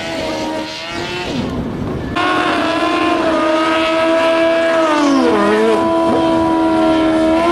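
Drag-racing motorcycle engines held at high revs. There is a sudden change about two seconds in, and one engine's pitch drops sharply about five seconds in while another keeps running steady.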